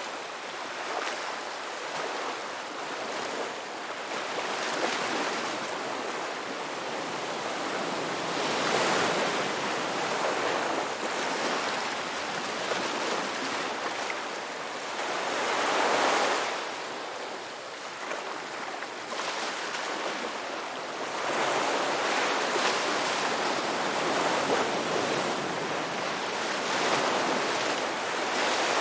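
Sea waves breaking and washing ashore in a continuous surf, swelling louder every several seconds as each wave comes in and then falling back.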